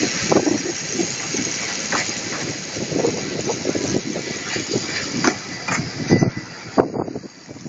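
Great Orme Tramway car, a cable-hauled tram, running along its rails with irregular clanks and rattles over a steady rumbling hiss. It gets quieter near the end.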